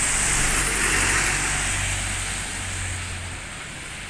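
A bus passing by, its engine running low under a hiss of tyre and road noise that is loudest in the first second or two and then fades as it moves away.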